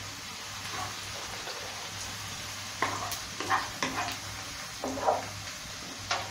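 Onions and chopped garlic sizzling in hot oil in a non-stick wok. From about halfway in, a wooden spatula stirs them with a run of short scrapes and knocks against the pan.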